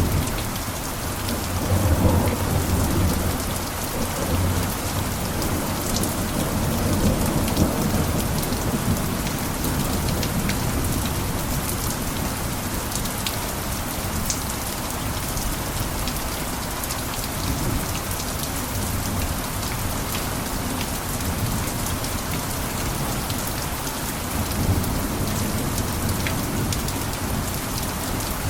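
Steady heavy rain pattering on a roof, with fine drop clicks throughout. A deeper low rumble swells up about two seconds in and again near the end.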